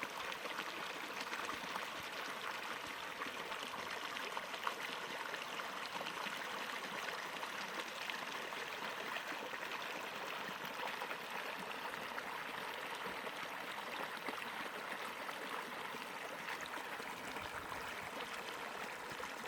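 Shallow, clear stream running over rocks: a steady, even rush of water.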